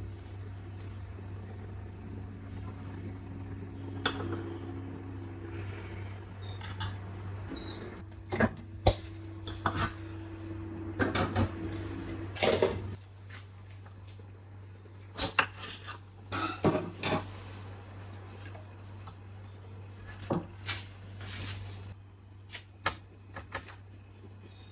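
Kitchen clatter: dishes, pots and metal cutlery being handled and set down in a string of sharp knocks and clinks. Under it runs a steady low hum of an appliance, which cuts off about halfway through.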